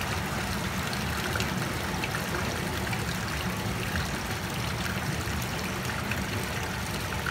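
Rainwater rushing along a drain filled to the brim, a steady fast-flowing rush with trickling.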